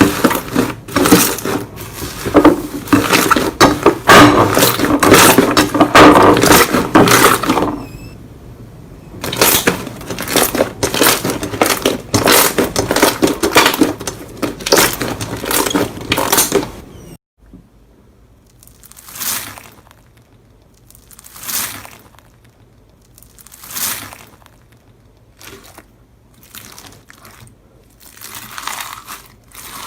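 Slime being squeezed and worked by hand, with a dense run of rapid crackling and popping. After a cut about halfway through it turns to slower, separate squishes about every two seconds.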